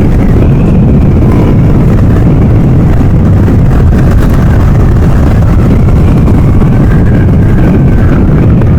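Heavy wind rushing over the microphone of a moving motorcycle, a loud steady rumble with the engine running underneath.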